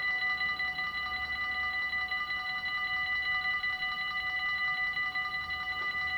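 Dutch level-crossing warning bell ringing in a fast, even, unbroken stream of strikes: the crossing is active and warning of an approaching train.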